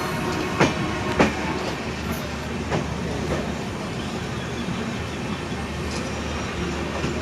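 Passenger train running along the track: a steady rumble with a few sharp wheel clacks over rail joints, the loudest about half a second and a second in.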